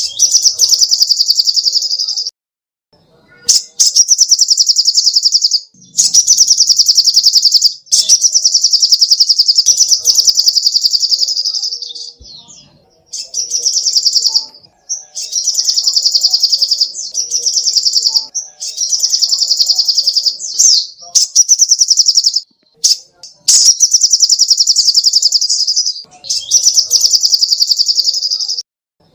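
Sogok ontong (little spiderhunter) calling: rapid, high, chattering trills in bursts of one to two seconds, repeated about a dozen times with short pauses between.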